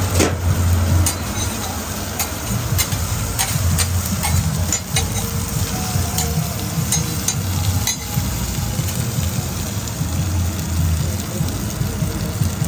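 Food sizzling and frying in a food truck kitchen, with scattered clicks and clatter of utensils over a steady low hum.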